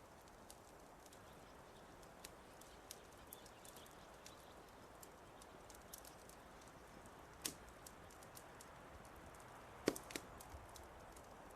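Wood fire in a fireplace crackling: scattered sharp pops and snaps over a faint steady hiss, with the loudest pops about halfway through and a cluster near the end.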